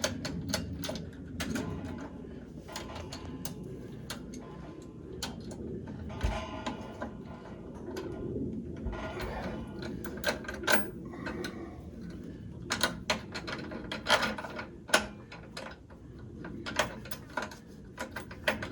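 Irregular clicks, clinks and knocks of hand tools and metal parts being handled while plumbing in a water heater, some in quick clusters.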